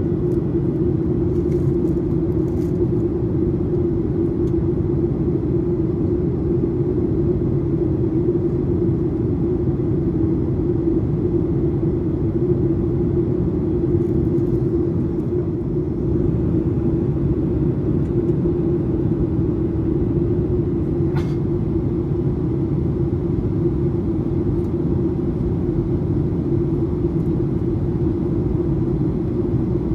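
Steady in-flight cabin drone of a Boeing 737-800, its CFM56-7B engines and airflow heard from inside the cabin at a window seat: a low rumble under a constant hum. A faint click about two-thirds of the way through.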